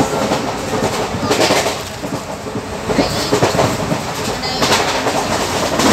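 Passenger train running, heard from inside the coach: a loud steady rumble and rattle with irregular knocks.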